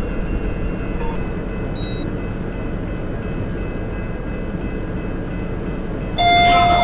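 Lift car travelling with a steady rumbling hum, a short high beep about two seconds in, then near the end a loud multi-tone arrival chime sounds as the lift reaches its floor.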